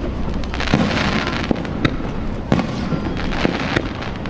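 Aerial fireworks going off: a series of sharp bangs over a continuous crackle of bursting shells.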